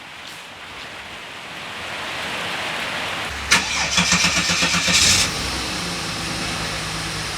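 Rain hiss, then about three and a half seconds in a Holden Commodore's L36 Ecotec 3.8-litre V6 is cranked by its starter and catches about a second and a half later, settling into a steady idle. The owner suspects that a pitted, rusted camshaft makes this engine run rough.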